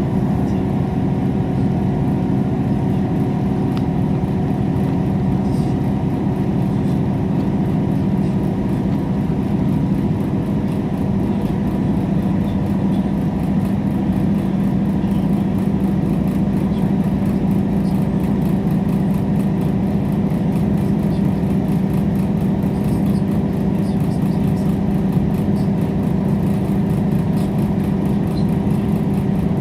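Steady running noise of a diesel passenger train heard from inside the carriage: a constant engine hum with held tones under a bed of wheel and track noise, unchanging throughout.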